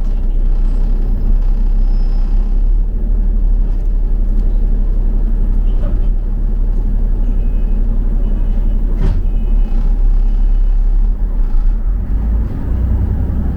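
Steady low rumble of a double-decker bus in motion: engine and road noise heard from inside. There is one sharp click about nine seconds in, and the low hum swells near the end.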